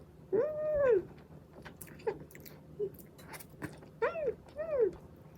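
Three short, high, arching vocal calls, one near the start and two close together about four seconds in, with light clicks between.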